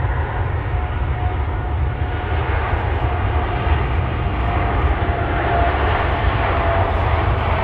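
Jet airliner engines running as the aircraft passes: a loud, steady rumble with a faint whine that drops slightly in pitch.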